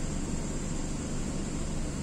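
MTR K-Train standing at a station platform, its air conditioning and on-board equipment running: an even hiss over a constant low hum.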